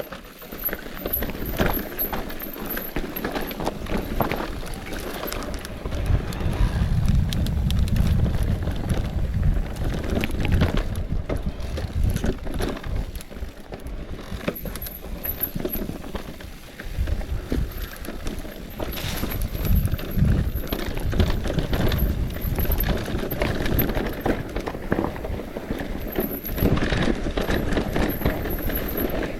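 Mountain bike running down a rough, muddy trail: tyres on dirt and stones, with a constant clatter of the bike rattling over bumps and wind rumbling on the microphone. The rumble swells a few seconds in and again near the two-thirds mark.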